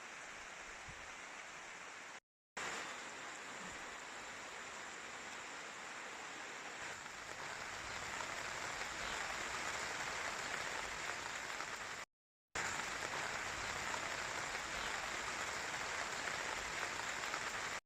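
Light rain falling, a steady hiss of drops that grows louder about eight seconds in. It drops out completely twice for a moment and cuts off abruptly at the end.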